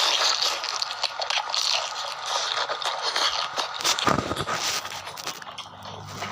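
Close-up eating sounds: a utensil scraping a plate, with chewing and crunching.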